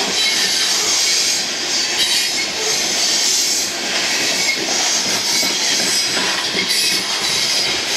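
Loaded coal gondola cars rolling past at low speed, the steel wheels giving a steady high squeal with clacking over the rail joints.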